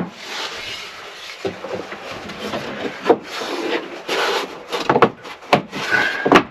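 A cedar board scraping and rubbing against wood as it is worked into a tight fit in a ceiling, with a few sharp knocks in the second half.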